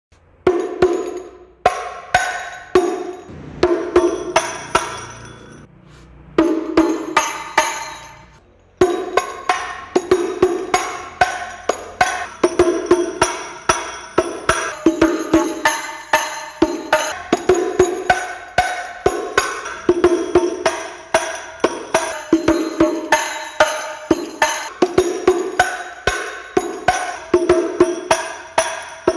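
Terbang frame drums of hadrah banjari struck by hand. A few separate strokes first, then from about nine seconds in a steady rhythm: a deep, ringing stroke about once a second among quicker, sharper slaps.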